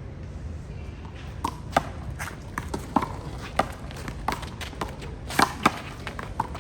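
Handball rally: a small rubber ball being slapped by hand and bouncing off the wall and court, making a run of sharp, irregular smacks. They start about a second and a half in and come roughly every half second.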